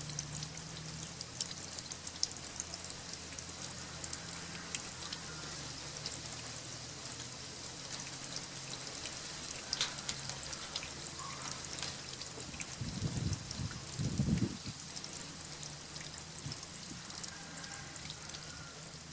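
Water dripping and splashing, with many small sharp ticks and a steady low hum underneath. Two short low rumbles come about thirteen and fourteen seconds in.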